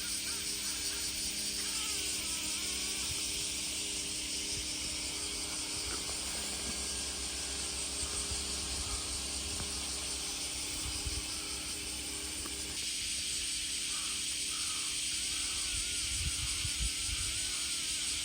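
Summer outdoor ambience: a dense, steady high drone of insects, with small birds chirping on and off, more often in the second half. A low rumble of wind on the microphone lies underneath.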